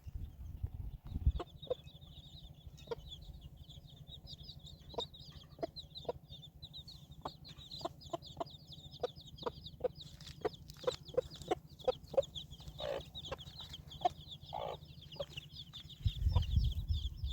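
Chickens clucking in short, irregular calls over a continuous high-pitched chirping, with a low rumble near the end.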